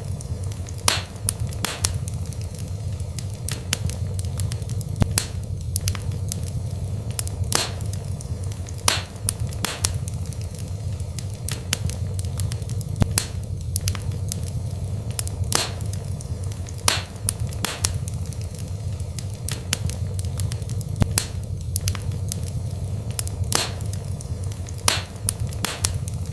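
Wood fire burning in a fireplace: a steady low rumble of flames with sharp crackles and pops, a few every second.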